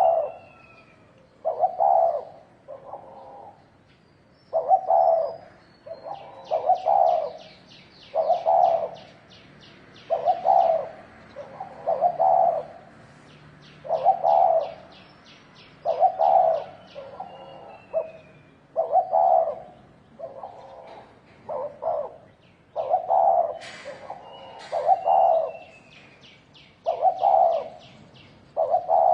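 Spotted dove cooing: a low, repeated coo phrase about every two seconds. Fainter chirps and quick high trills from small birds sound above it.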